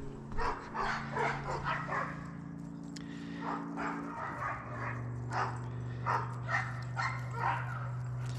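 An animal's short cries, repeated about two a second, over a steady low hum that changes pitch about four seconds in.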